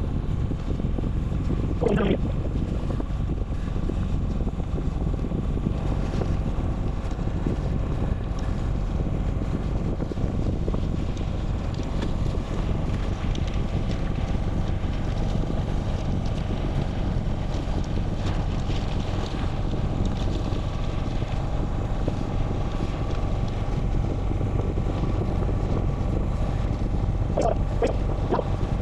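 Steady wind noise rumbling on the microphone, as from riding along. There are two short higher-pitched sounds, one about two seconds in and one near the end.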